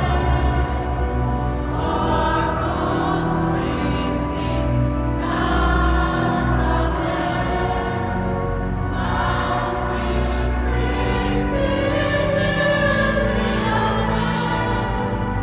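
Church choir singing a sacred piece in several parts, with sustained low organ notes beneath.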